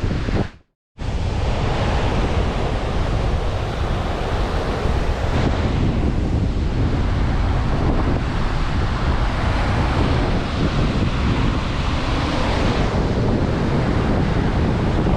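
Sea surf and strong wind buffeting the microphone, a steady rush of noise that drops out for a moment near the start at an edit cut.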